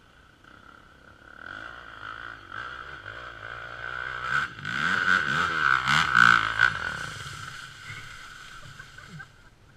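Enduro dirt bike engine revving in rising and falling surges. It builds from about a second in to its loudest in the middle, then drops back toward idle near the end.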